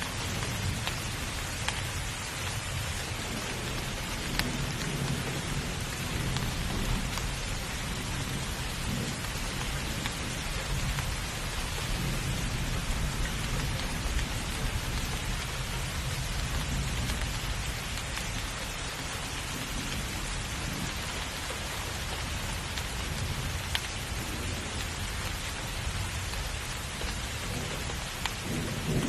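Steady rain falling hard, a dense even hiss with scattered sharp drop ticks. A low rumble of thunder swells and fades underneath.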